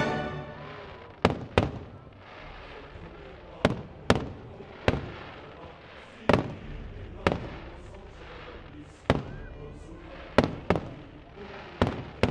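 Aerial firework shells bursting overhead: about a dozen sharp bangs at irregular intervals, some in quick pairs, each with a short echoing tail.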